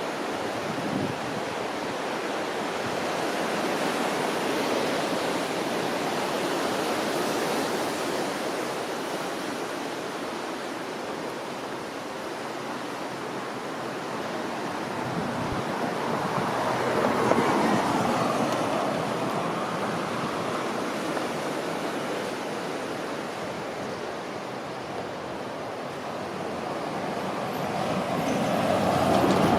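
Steady outdoor rushing noise that swells and fades three times: about a sixth of the way in, just past halfway, and again at the end.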